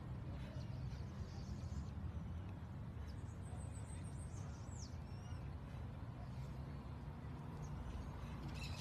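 Faint birds chirping now and then over a steady low rumble of outdoor ambience.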